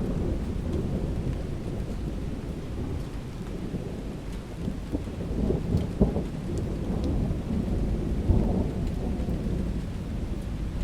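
Heavy rain with rolling thunder: a continuous low rumble that swells, with two sharper cracks just past the middle and about three-quarters through, and light raindrops ticking on window glass.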